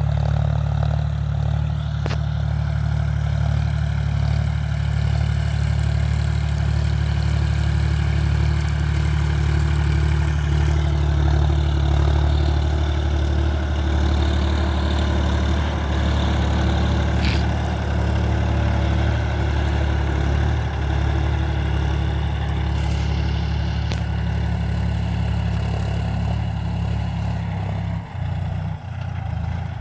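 Diesel engine of a John Deere 5050D tractor, a three-cylinder, running steadily, with a couple of brief dips near the end.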